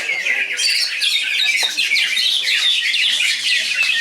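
Several caged green leafbirds (cucak ijo) sing at once in a dense chorus of fast, overlapping chirps, whistles and squawky notes.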